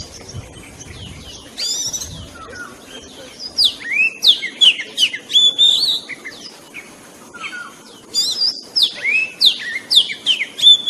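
Oriental magpie-robin singing: quick, varied whistled notes sliding up and down, in two lively bursts a few seconds apart with scattered notes between.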